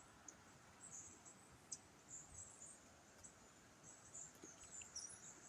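Near silence: faint outdoor ambience with thin, high-pitched chirps coming and going.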